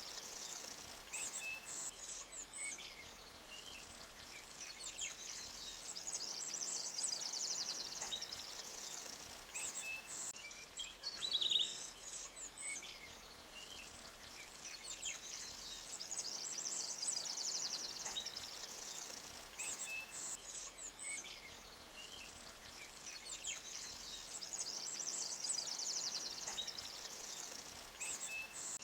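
Small birds chirping and twittering: a dense, high twittering swells and fades about every nine seconds, with scattered short chirps between, over a faint steady hiss.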